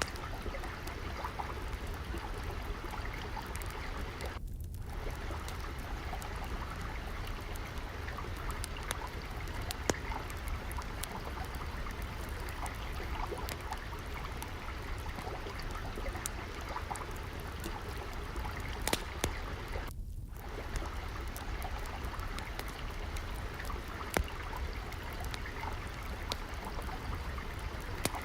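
Steady trickling of flowing water, with scattered sharp crackles and pops from a wood fire in a fireplace.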